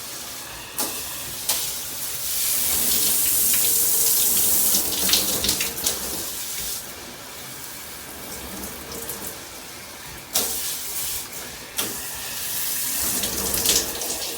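Handheld filtered shower head spraying water in a steady hiss, which grows louder for a few seconds about two seconds in and again near the end, with a few sharp knocks.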